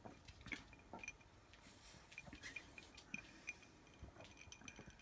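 Near silence with faint, scattered small clicks and light clinks.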